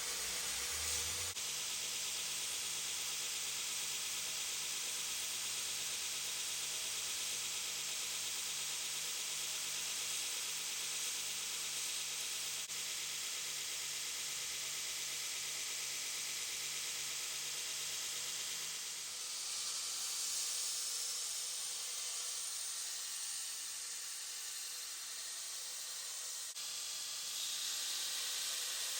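Belt grinder grinding the blade bevels on a Damascus knife: a steady, even grinding hiss over a low motor hum. The hum drops out about two-thirds of the way through while the hiss goes on.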